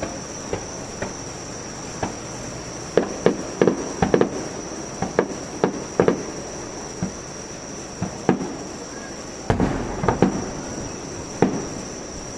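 Fireworks going off overhead: an irregular run of sharp bangs that bunch together about three to four seconds in and again near the ten-second mark, with a steady high-pitched whine underneath.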